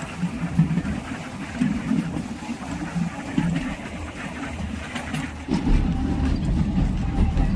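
Kalka–Shimla narrow-gauge rail motor car running along the track, a steady rumble that turns deeper and louder about five and a half seconds in.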